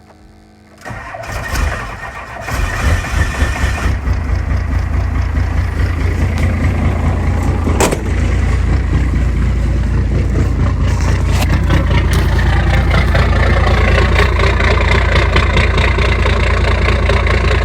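5.9-litre 12-valve Cummins inline-six diesel cold-starting: the starter cranks it for under two seconds, the engine catches and climbs, then settles into a loud, steady idle.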